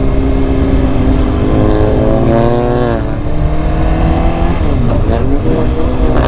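Kawasaki Ninja ZX-10R inline-four running under way with heavy wind rush. The engine note climbs gently, then drops sharply about three seconds in as the throttle closes. Around five seconds another engine's pitch crosses it.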